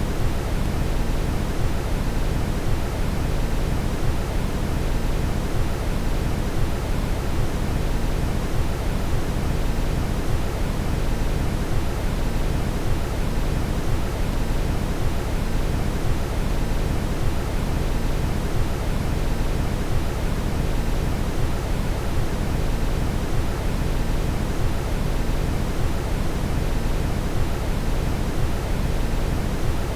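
Steady brown noise: a constant deep rush with most of its energy in the bass, fading off toward the treble, unchanging throughout.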